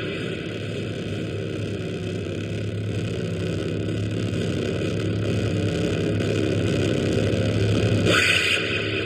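Noise synthesizer putting out a rough, low, engine-like rumbling drone that grows slowly louder. A quick rising sweep comes about eight seconds in, then the level drops back.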